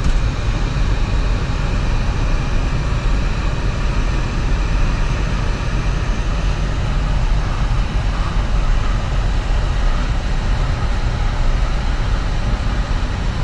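Steady low rumble of a car heard from inside its cabin, in storm wind and rain.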